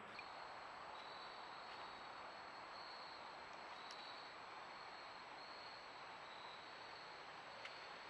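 Faint, steady, high-pitched insect trill, cricket-like, over the steady hiss of a trail camera's microphone.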